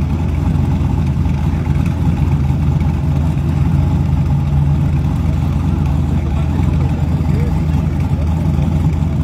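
Race car engines idling steadily at the starting line, a low rumble that holds the same pitch with no revving, over crowd chatter.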